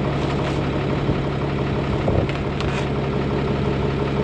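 Tractor engine idling steadily, with a few faint clicks and knocks as hydraulic hoses are connected to the mixer's Pioneer couplers.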